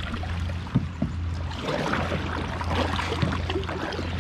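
Kayak paddle dipping and splashing, water running and dripping off the blade, growing busier about a second and a half in, over a steady low hum.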